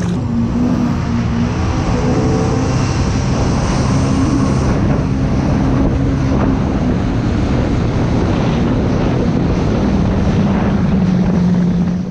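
Jet ski under way: its engine runs at a steady speed with an even drone, mixed with wind on the microphone and water rushing past the hull.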